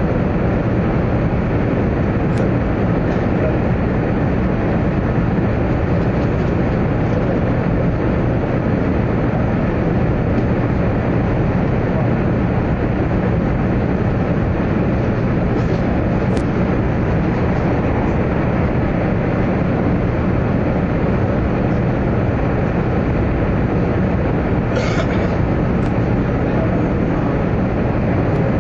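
Steady rumbling running noise of a 100 Series Shinkansen train passing through the Shin-Kanmon Tunnel, heard inside the passenger car. A brief hiss comes near the end.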